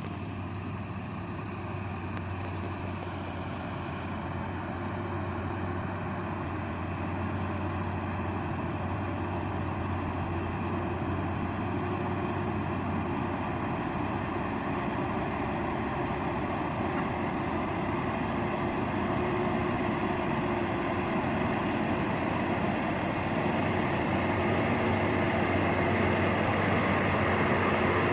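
Diesel truck engine running steadily with a low hum, getting gradually louder throughout.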